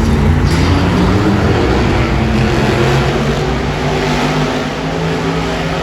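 Monster truck engine running loudly in the arena, its note holding steady with small changes in pitch.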